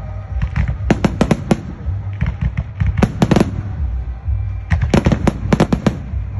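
Fireworks going off in three quick volleys of sharp bangs, four to six in each, about two seconds apart, over a steady low rumble.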